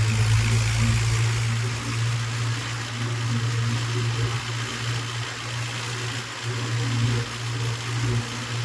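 Tractor engine running steadily: a constant low hum, with a broad hiss over it.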